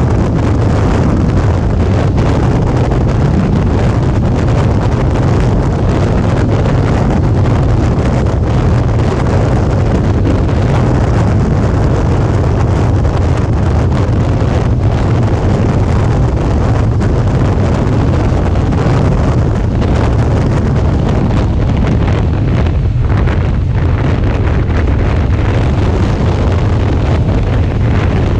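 Steady wind rush buffeting the camera's microphone at riding speed, over the low, even drone of a Suzuki V-Strom 650's V-twin engine at a steady cruise.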